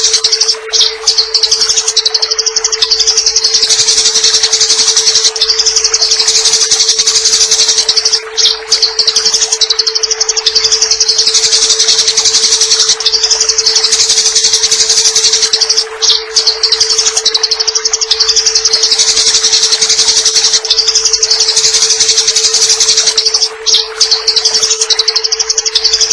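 Eurasian tree sparrows giving a rapid, unbroken high chatter, the harsh call of sparrows squaring up to fight. The recording repeats in a loop with a brief break about every seven to eight seconds, over a steady water-trickle hiss and a constant low tone.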